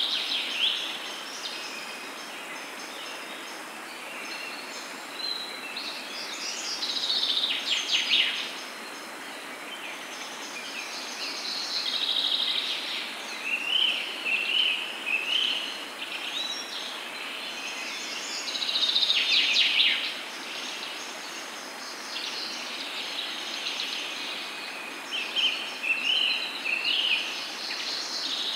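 Several birds chirping and singing in repeated short trills and warbled phrases, over a steady background hiss.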